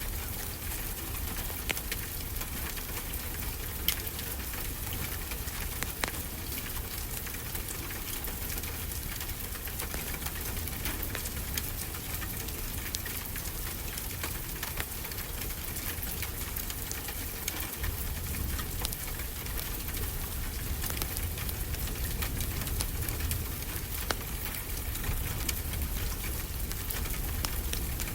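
Wood fire crackling, with scattered sharp pops, over a steady hiss and the low rumble of ocean surf that swells slightly in the second half.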